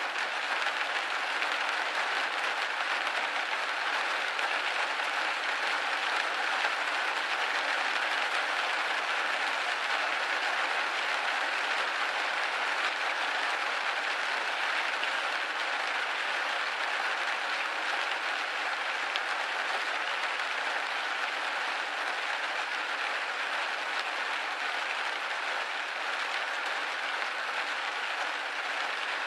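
Steady rain hitting a window pane: a dense, even hiss of drops.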